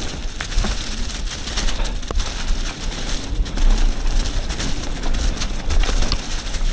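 Mountain bike running down a dirt trail: wind buffeting the camera microphone with a steady low rumble, over tyre noise and scattered clicks and rattles from the bike.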